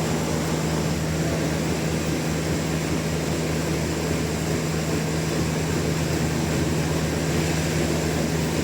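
Sawmill machinery running with a steady low hum and an even mechanical drone, with no cutting or impacts.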